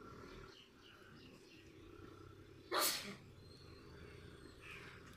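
A Suzuki Alto small car's engine running faintly as the car reverses, a low steady hum, with one short hissing burst about three seconds in that is the loudest sound.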